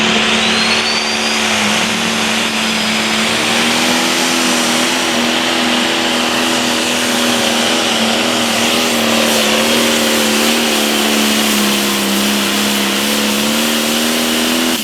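Turbo-diesel limited pro stock pulling tractor engine running hard at high, steady revs under load down the track, with a high turbo whistle near the start. The engine note sags slightly about three-quarters of the way through, then comes back up.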